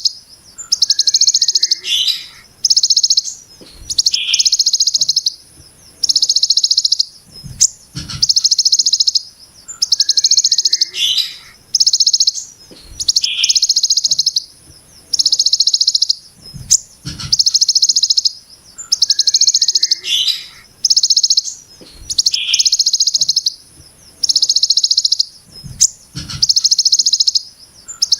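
Ciblek gunung (mountain prinia) giving its rasping 'brem' call: dense, buzzy trills just under a second long, high-pitched, repeated about every second and a half, with short lower chirps between some of them.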